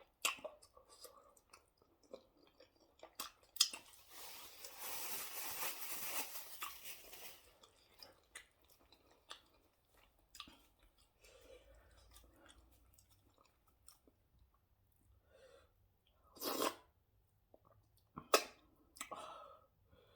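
Close-up eating sounds of a person eating fufu with slimy ogbono soup: scattered wet clicks and chewing noises, with a few seconds of hissing noise about four seconds in and two louder short bursts near the end.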